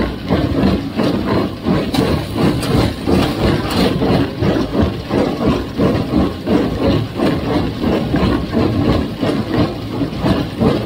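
Farmall 350 tractor engine running with a John Deere 348 square baler working behind it, the sound swelling in a steady rhythmic pulse about one and a half times a second.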